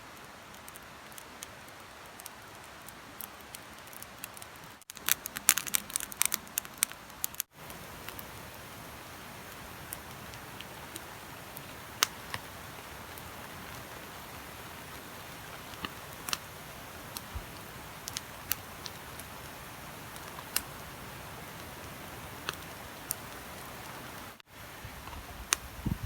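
Steady rain with scattered single drops ticking sharply, and a dense flurry of louder ticks about five to seven seconds in.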